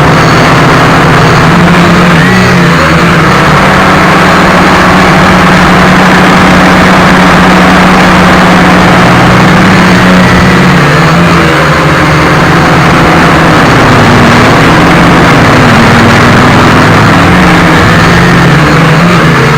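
Small quadcopter's electric motors and propellers buzzing loudly in flight, with a steady low hum and higher tones that rise and fall as the motor speed changes.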